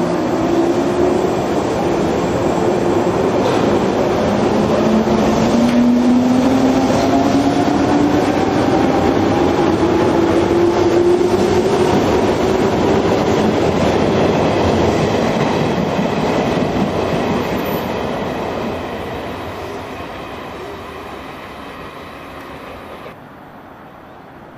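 JR 103 series electric train with DC traction motors, accelerating: the motor whine rises steadily in pitch over the rolling of wheels on rail. It then fades as the train draws away, and the sound cuts off suddenly near the end.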